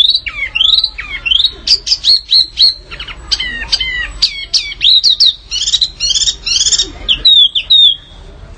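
Small songbirds singing a fast, aggressive 'fighting'-style masteran song: rapid sharp chirps and quick downward-sweeping whistled notes. A louder, densely packed run of notes comes just past the middle, then a softer trill before a short lull at the end.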